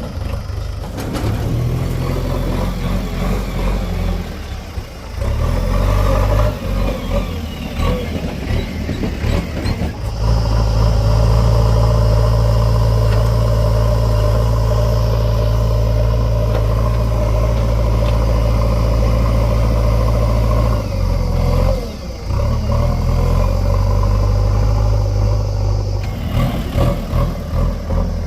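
Heavy diesel engine working under load. It runs unevenly at first, then about ten seconds in comes up to higher, steady revs and holds there, easing off briefly a little past twenty seconds before picking up again.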